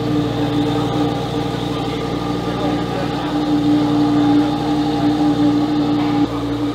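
The Lamborghini Huracán Tecnica's naturally aspirated 5.2-litre V10 idling steadily, with a slight change in its note about six seconds in.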